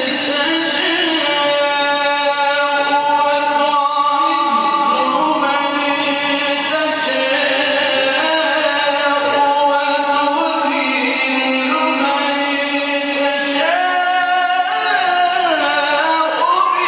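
A male Quran reciter chanting in the melodic mujawwad style: long held, ornamented notes that slide and turn in pitch through one extended phrase.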